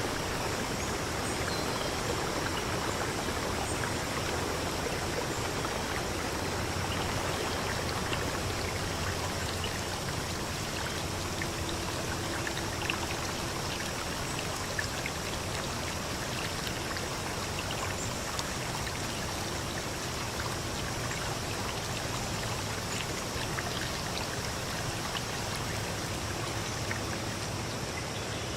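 Steady rushing of a flowing stream, with a faint low hum that comes and goes in the second half.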